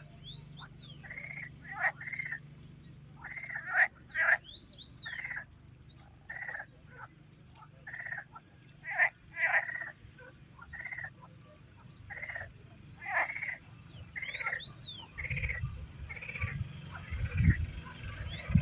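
Short animal calls repeating irregularly, about one or two a second, with a few higher chirps among them and a low rumble in the last few seconds.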